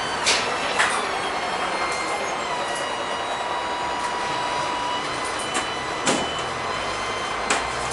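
LM-68M tram running along the line: a steady rolling rumble with a thin electric motor whine, and a few sharp knocks, four in all, near the start and near the end.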